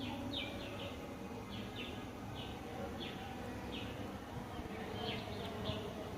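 Birds chirping: a run of short, quick falling chirps, about two a second, over a low steady background noise.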